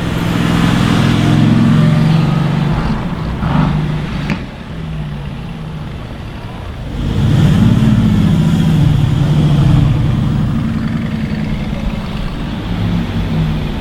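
Car engines accelerating on a street, loud in the first few seconds and again from about seven seconds in, with pitch rising and falling, and quieter traffic noise between.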